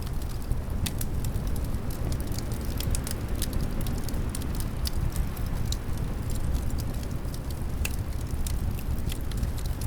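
Crackling wood fire, with scattered sharp pops and snaps over a steady low rumble of wind.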